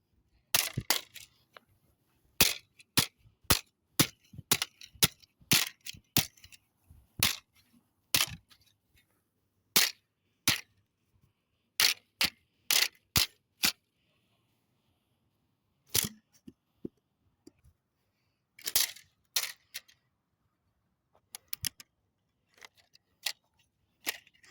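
Repeated sharp blows smashing a plastic toy microwave, about two dozen separate hits at irregular spacing, some in quick pairs. There is a pause of about two seconds in the middle and a few lighter hits near the end.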